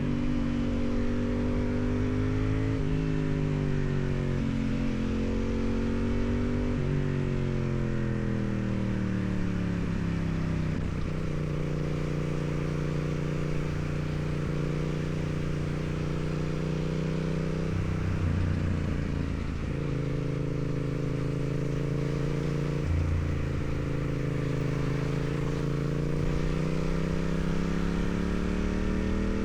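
2016 Yamaha MT-07's parallel-twin engine through its stock exhaust, pulling through the gears: the engine note climbs and drops sharply with each upshift about three, seven and eleven seconds in, then holds steady, wavers briefly and climbs again near the end.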